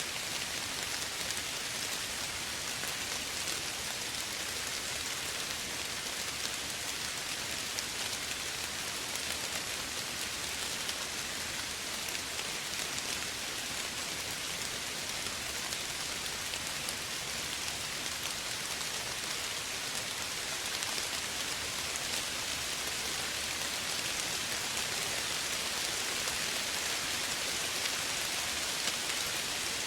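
Steady, gentle rain falling on surfaces: an even hiss with fine drop patter.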